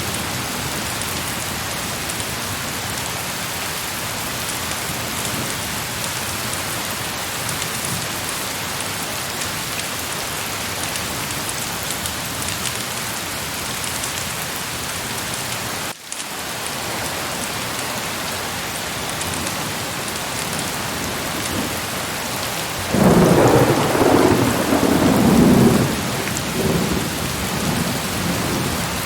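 Heavy rain falling in a steady hiss, with a roll of thunder rumbling for about three seconds near the end. The level dips sharply for an instant about halfway through.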